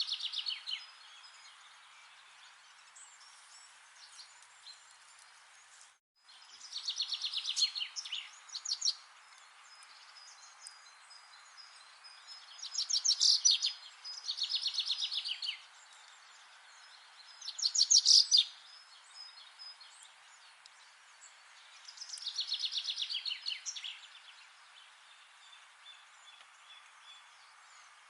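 A songbird singing a fast trilled phrase of rapid high notes, repeated about every four to five seconds, over a steady background hiss. The sound cuts out for a moment about six seconds in.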